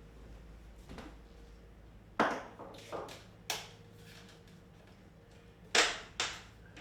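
A handful of sharp knocks of hard objects, five in all at uneven gaps, each with a brief ring; the loudest come about two seconds in and near the end.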